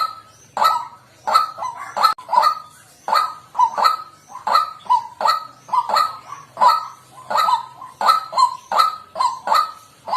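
White-breasted waterhen calling: harsh, honking notes repeated about twice a second, some in quick pairs.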